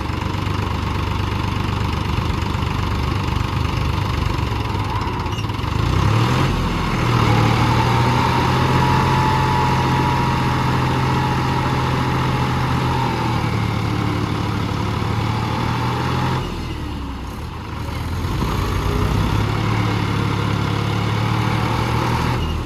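Tractor diesel engine working under heavy load. It revs up about six seconds in and holds high, eases off for a moment about two-thirds of the way through, then revs up again. This is the sound of a tractor straining to pull another tractor out of mud.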